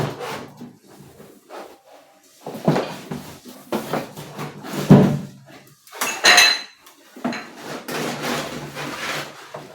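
Knocking and clattering as a new coffee maker and its moulded pulp packing inserts are handled and lifted out of the box: a string of irregular knocks, the sharpest and brightest about six seconds in.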